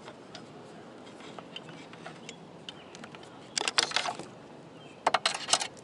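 Antenna cable being fed by hand through a hole in the RV roof: scattered light clicks, with two short bursts of quick rattling clicks about three and a half seconds in and near the end.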